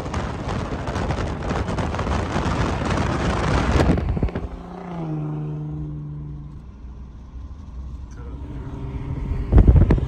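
Loud wind and road noise through an open car window while driving. About four seconds in it drops away, leaving a car engine's steady note, which dips slightly in pitch as it settles. A brief loud burst comes near the end.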